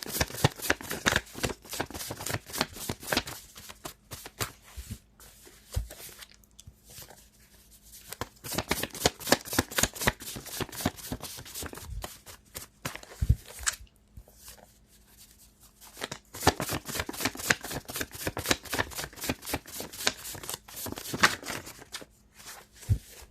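A deck of tarot cards being shuffled by hand: rapid riffling clicks in three long runs, with short pauses between them.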